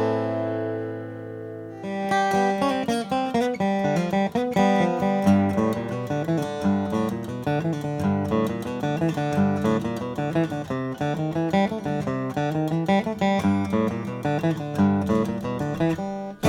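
1947 Martin D-18 dreadnought acoustic guitar (mahogany back and sides, spruce top) being played: a chord rings and fades for about two seconds, then a steady run of picked notes over moving bass notes.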